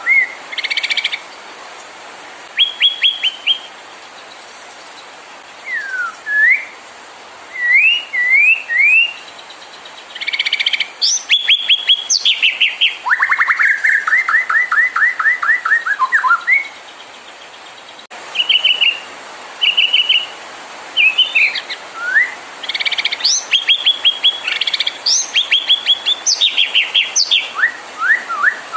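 White-rumped shama (murai batu) singing a varied song in separate phrases: rapid trills of repeated notes, quick rising whistled slurs and high sharp notes, with short pauses between phrases. The longest trill comes about halfway through. This is a lure song of the kind played to rouse caged shamas into singing.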